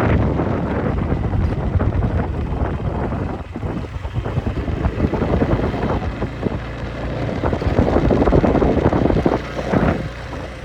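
Wind buffeting the microphone on a moving motorcycle, with the motorcycle's engine and road noise rumbling underneath, rising and falling in gusts.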